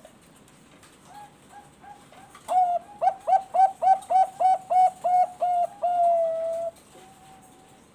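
Bangkok-type perkutut (zebra dove) singing: a few soft notes, then a quick string of about a dozen loud, clipped coos ending in one longer held note.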